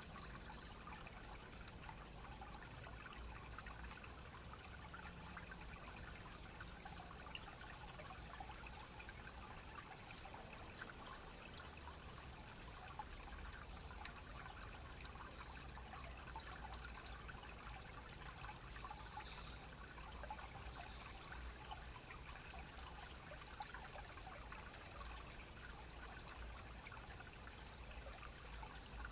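A shallow stream trickling and running steadily over stones. Partway through comes a run of short high chirps, about two a second, then a few more a little later.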